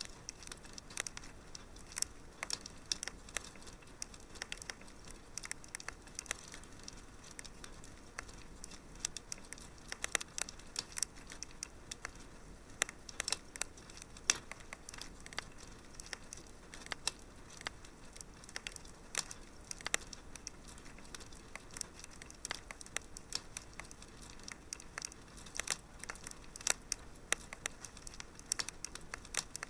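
Wood fire crackling in a fireplace: a steady low hiss with irregular sharp pops and snaps, several a second.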